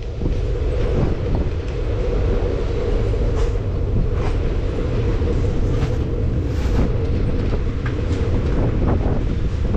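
Express passenger train running along the track: a steady loud rumble of coach wheels on the rails, with scattered sharp clicks and knocks.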